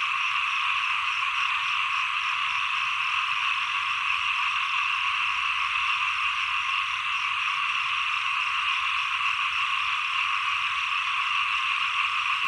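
A dense, steady chorus of many small frogs calling at once, with a fainter call repeating at an even pace above it.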